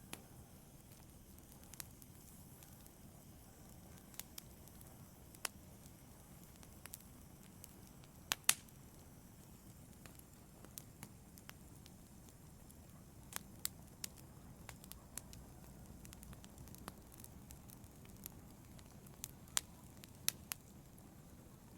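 Wood fire in a fireplace crackling, with sparse, irregular sharp pops over a low steady rumble. The loudest is a quick double pop about a third of the way in, and a cluster of pops comes near the end.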